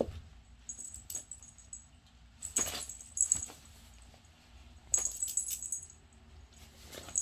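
Small collar bell on a pet jingling in three short bursts as the animal moves, with light clicks and rattles in between.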